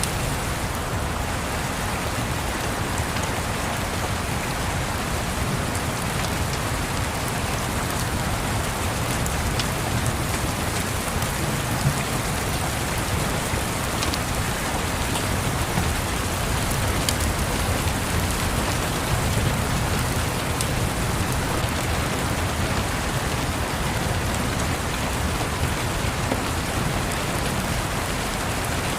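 Steady rain, with a low distant thunder rumble that swells and eases underneath and a few sharp crackles from a wood fire.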